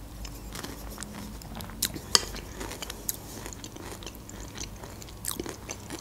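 Close-miked chewing of a mouthful of broccoli cream soup, with scattered mouth clicks.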